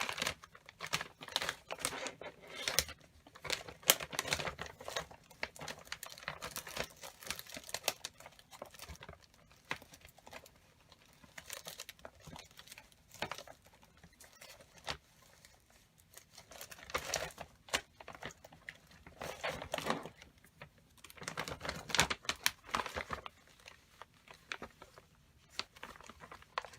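Rummaging through a bag of paper cut-out images: paper and bag rustling and crinkling in irregular bursts, with small clicks, heaviest in a few bursts in the second half.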